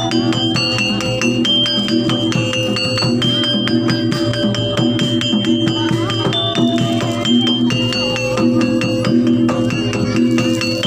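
Live jaranan gamelan music: struck metal keyed and gong instruments play a fast, steady stream of ringing notes over drums.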